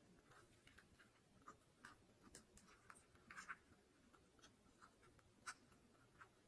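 A parrot pecking and nibbling at a sneaker: faint, irregular scratches and small clicks, with a few sharper clicks along the way.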